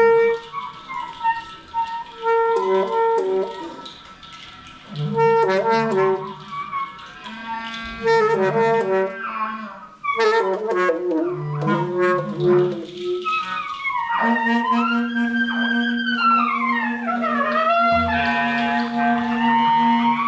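Free group improvisation on several instruments, wind instruments among them: overlapping held notes and short phrases, a low sustained note entering in the second half, and a long downward pitch glide about two-thirds of the way through.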